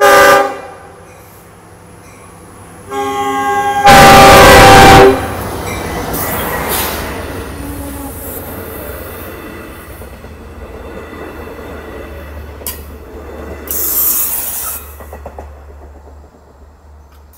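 Long Island Rail Road diesel-hauled train sounding its horn at a grade crossing: a short blast, then a long blast starting about three seconds in that is very loud as the locomotive passes. The rumble of bi-level coaches going by follows and slowly fades, with a brief high-pitched burst near the end.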